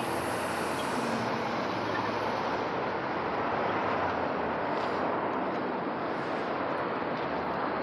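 Steady street traffic noise: a rushing vehicle and road sound with no clear beat or tone, getting a little louder near the end.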